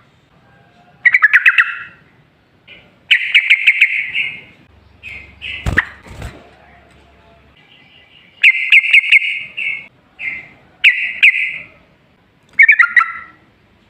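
Yellow-vented bulbul (trucukan) singing: short, loud bursts of rapid bubbling notes, repeated every second or two. There is one brief knock about six seconds in.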